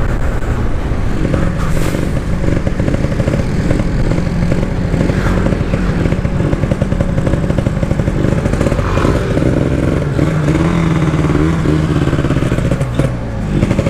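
Yamasaki motorcycle engine running at low road speed, heard from the rider's position. The engine note holds steady, then rises and falls a few times near the end.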